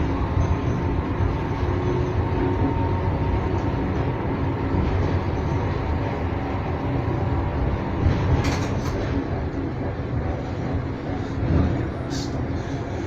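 Electric tram running along its track with a steady low rumble, and two short sharp clicks from the running gear, one about two-thirds of the way in and one near the end.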